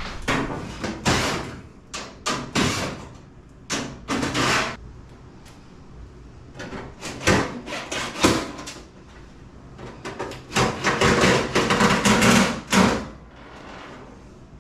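Irregular knocks, clanks and short scrapes of metal appliance parts being handled and fitted on a GE stacked washer-dryer, coming in clusters with quieter gaps between.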